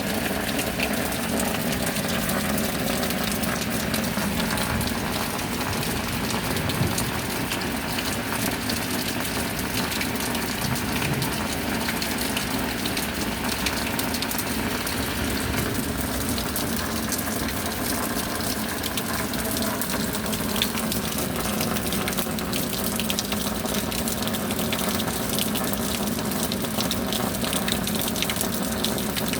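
Steady rain: an even rush of falling water that keeps on without let-up.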